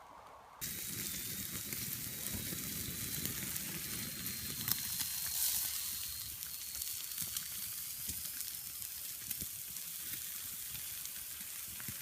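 Streaky bacon sizzling and frying on a grill over a small campfire, a steady hiss full of small crackles that starts abruptly about half a second in.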